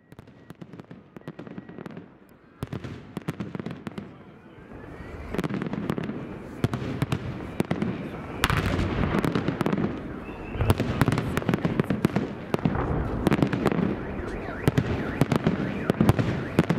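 Fireworks display: a rapid string of shell bursts, bangs and crackle, faint at first and growing louder and denser about five seconds in.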